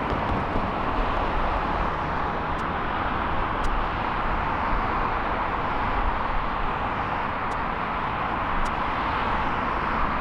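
Jet airliner engines giving a steady, even rush of noise, the sound of an aircraft climbing out after takeoff.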